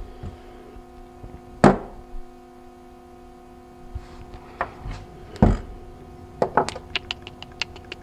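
Metal hand tools knocking a few times against parts in a car's engine bay, then a quick run of about eight light ticks near the end, over a faint steady hum.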